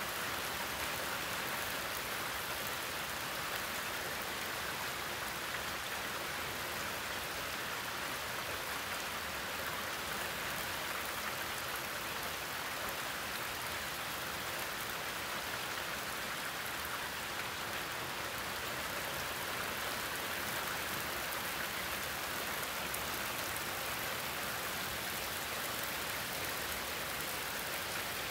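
Heavy hurricane rain pouring steadily, an even, unbroken hiss with no letup.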